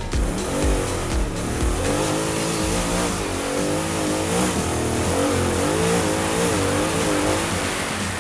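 Trophy truck engine revving up and down, its pitch rising and falling again and again as it is driven hard.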